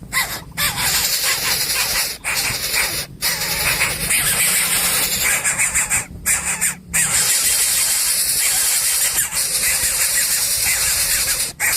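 Coucal chick begging noisily at the nest, a continuous run of harsh, hissing squeals.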